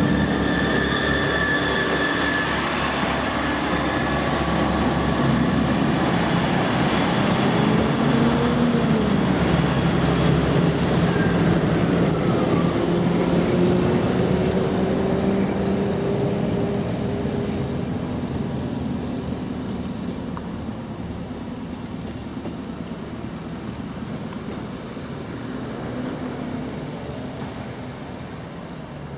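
Diesel passenger train running past, its engine drone and high whining tones strong at first, then the sound fading steadily as it moves away.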